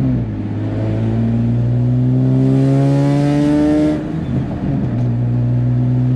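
Single-turbo Nissan 350Z's 3.5-litre V6 under hard acceleration, its revs climbing steadily through a gear, then a short break about four seconds in as it shifts up, after which the revs climb again.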